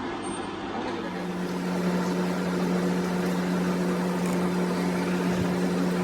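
A motor-driven machine running with a steady hum, starting about a second in.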